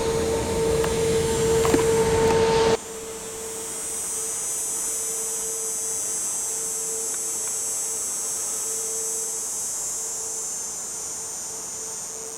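Airbus A350's Rolls-Royce Trent XWB jet engines running at idle: a steady whine over a wide rushing noise. About three seconds in, the sound drops suddenly to a quieter high hiss with the faint whine still under it.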